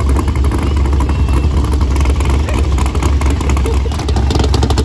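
Car engines running with a steady deep sound as cars pass slowly by, with a fast crackle coming in about four seconds in.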